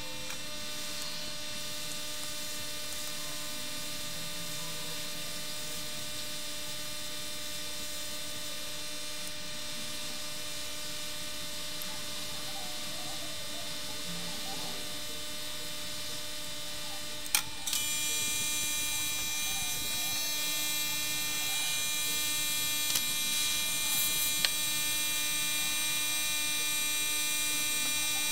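Steady electrical hum of bench electronics. About 17 seconds in there is a sharp click, and the hum then gets louder with a high whine added, as if a machine on the bench has switched on. A couple of faint clicks follow later.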